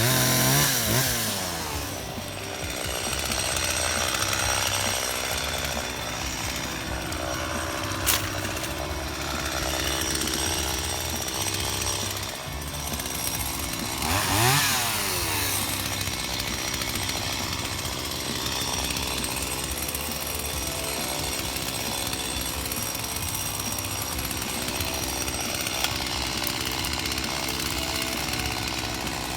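Stihl two-stroke chainsaw idling steadily, revved up briefly at the start and again about 14 seconds in. At idle the chain does not turn.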